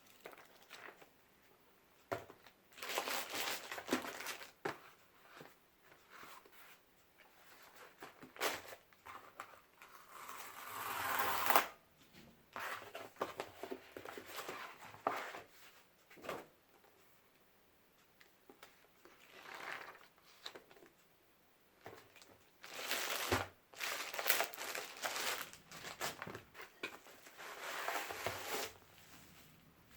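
Intermittent rustling and crinkling from things being handled by hand, with scattered clicks and knocks. There are louder spells about three seconds in, around ten to twelve seconds in, and through the last third, with quiet gaps between them.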